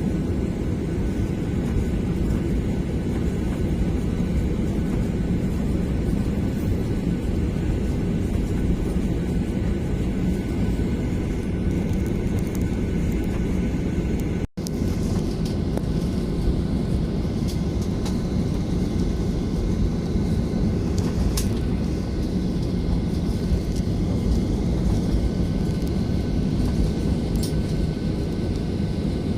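Airliner cabin noise: the steady low rumble of the jet engines and airflow heard from inside the passenger cabin. The sound cuts out for an instant about halfway.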